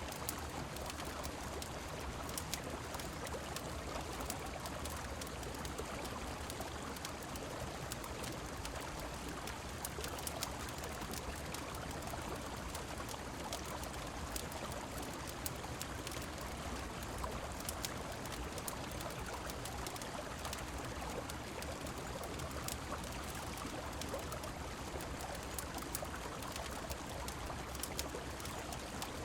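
Steady rush of river water mixed with falling rain, with scattered small sharp crackles and clicks over it, as from a wood fire or heavy drops.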